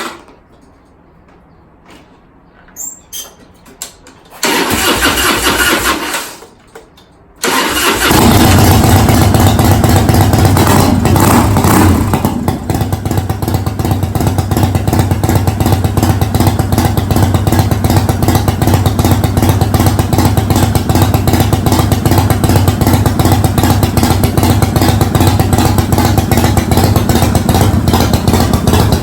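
Custom motorcycle engine being started: after a few faint clicks, a first loud cranking burst of about a second and a half stops, then the engine catches on the second try, is revved once a few seconds later, and settles into a loud, steady idle.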